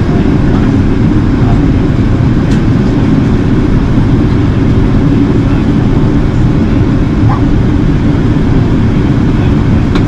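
Steady low drone of an Airbus A380 in flight, heard inside the passenger cabin: engine and airflow noise, loud and unchanging.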